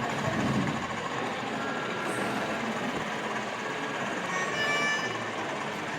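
Model train running on an exhibition layout, a steady rumble, with a short steady multi-note tone about four and a half seconds in.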